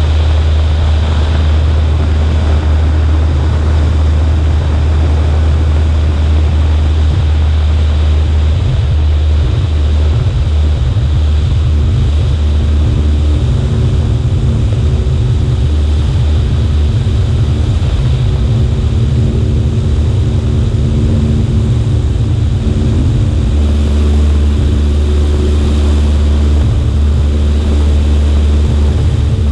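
Cessna 140A's engine and propeller droning steadily in flight, heard under heavy wind rumble on a wing-mounted microphone. The rumble turns rougher and more buffeting for a stretch in the middle, then steadies again.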